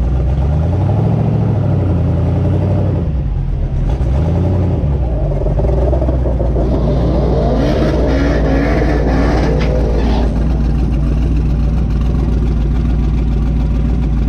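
Twin-turbo LS V8 drag car idling with a steady, deep rumble, its revs rising and falling a couple of times in the first few seconds. About halfway through, a second engine note sweeps up and down over it for a few seconds.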